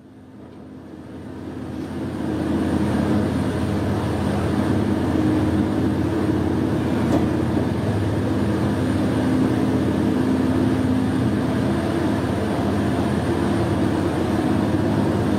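Train running through a tunnel, heard from the front of the train: a steady rumble with a low droning hum, fading up over the first two seconds or so.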